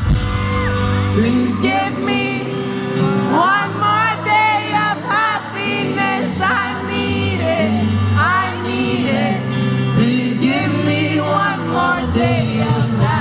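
Live pop music: a male singer's voice running through gliding, ornamented phrases over a band's sustained chords.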